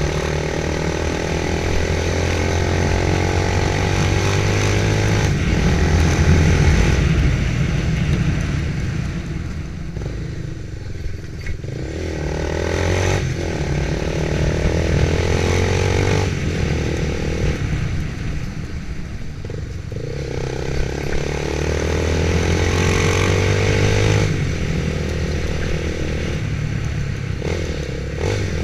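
Motorcycle engine running while riding, its note rising and falling repeatedly with throttle and gear changes.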